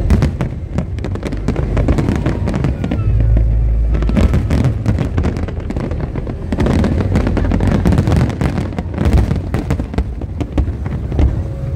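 Fireworks display going off: rapid bangs and crackling over a continuous deep rumble, heaviest about three to four seconds in.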